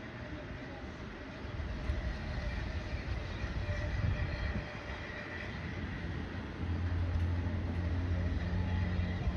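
Heritage shuttle train pulling away, with a continuous low rumble of engine and wheels on the rails. About two-thirds of the way through, a steadier, deeper drone comes in and holds.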